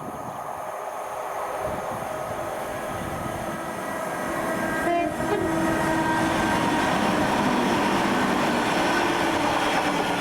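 Train approaching and growing louder, sounding a short horn blast about halfway through, then running past loudly.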